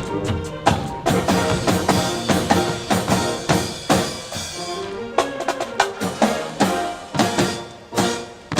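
Marching band percussion section playing a drum passage, sharp snare and bass drum strikes over band music.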